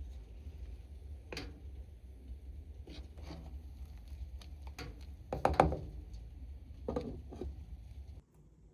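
Scattered knocks and clatters, the loudest a little past the middle, over a low steady rumble that cuts off shortly before the end.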